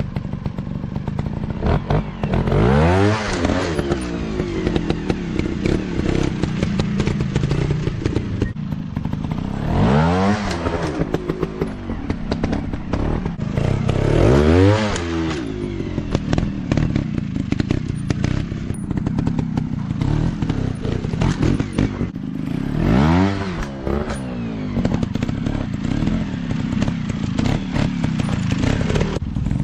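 Dirt bike engines running and revving, climbing and falling in pitch four times, with short knocks and clatter throughout.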